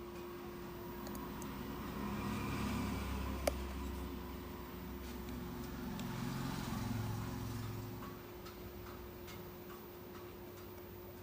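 A motor vehicle passing by, its low rumble swelling over a few seconds and fading away, over a steady low hum, with a sharp click about three and a half seconds in.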